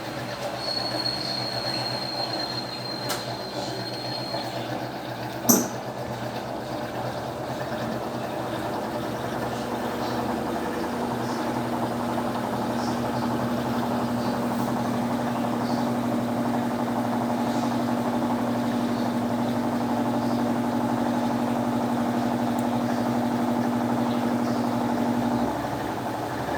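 Electrolux LTE12 top-loading washing machine in its final spin: steady whirring of the spinning drum and motor, with one sharp click about five seconds in. A steady low hum joins about ten seconds in and cuts off shortly before the end, where the sound drops a little.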